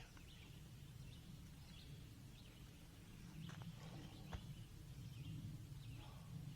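Quiet outdoor ambience: faint bird chirps over a low steady rumble, with two light clicks a little past the middle.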